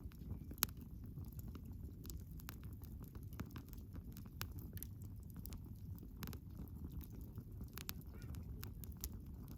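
Wood fire crackling: frequent sharp pops and snaps over a low, steady rumble of the flames, with one loud pop about half a second in.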